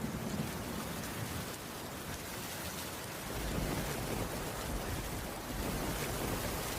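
Heavy rain falling as a steady hiss, with a low rumble underneath that dies down about a second and a half in and swells again after about three and a half seconds.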